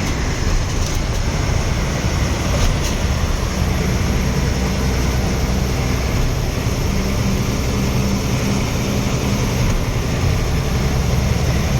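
Heavy 14-wheel truck driving at a steady speed: even diesel engine drone with constant road and wind noise, heard from inside the cab.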